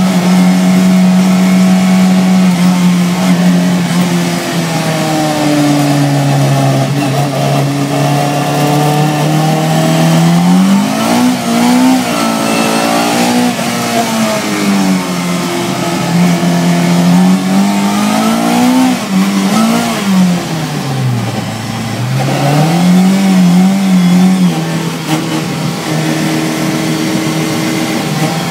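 Volvo 242 track car's engine, heard from inside the cabin, running hard around a circuit. Its note climbs and falls again and again as it accelerates and backs off, and drops lowest a little past two-thirds through before climbing again.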